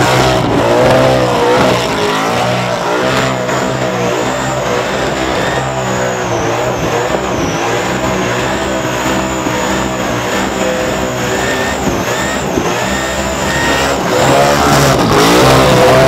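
Supercharged big-block V8 in a burnout, held at high revs with the revs rising and falling over and over as the rear tyres spin. It gets louder again about two seconds before the end.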